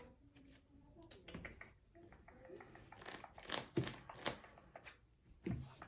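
Trading cards being handled and set down on play mats: a scatter of light taps and slides, a few louder ones about halfway through.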